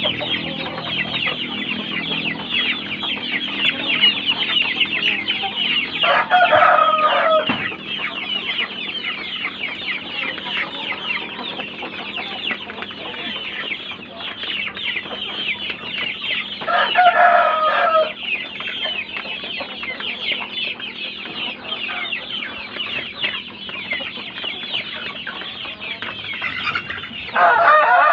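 A flock of kampung chickens calling without a break: a dense, high chatter of many birds. A rooster crows three times over it, about six seconds in, about seventeen seconds in, and at the end.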